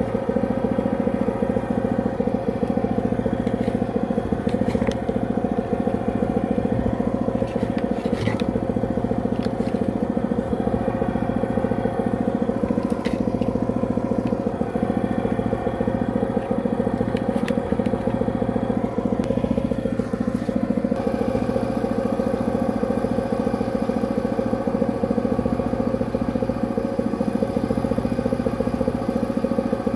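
Drain-cleaning machine motor running steadily while it works through a blocked drain, with a few sharp clicks and rattles over it.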